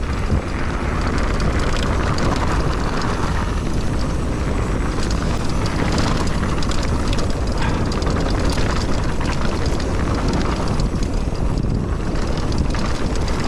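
Wind buffeting a GoPro's microphone during a fast mountain bike descent, with the tyres rolling over a rough dirt trail and many small rattles and ticks from the bike.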